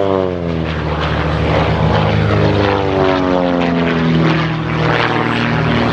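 Pitts Special aerobatic biplanes' piston engines and propellers running at high power as they pull up, the engine note sliding down in pitch over the first few seconds, then holding steady.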